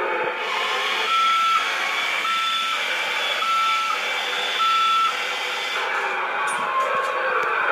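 A Toy State Road Rippers Rammunition toy monster truck in reverse: its reversing beeper sounds four times, evenly spaced about a second apart, over the steady running noise of the toy.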